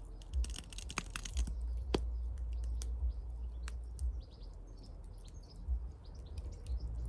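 Small birds chirping, many short high calls, over a steady low rumble, with a couple of sharp clicks about one and two seconds in.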